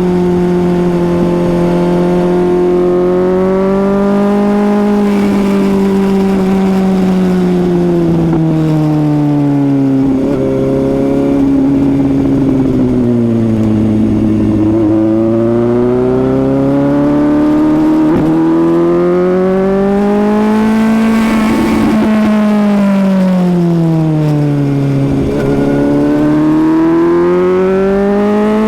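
Suzuki GSX-S750's inline-four engine running at speed, its pitch rising and falling again and again as the throttle is opened and eased off. The pitch dips low about a third of the way in, climbs back, and dips again near three-quarters of the way through before rising once more.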